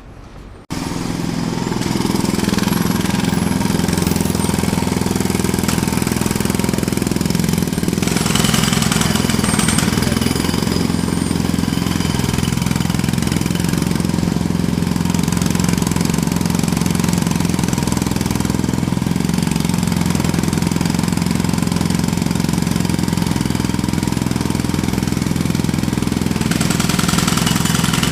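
Jackhammer starting up abruptly about a second in, then hammering steadily at a fast, even rate.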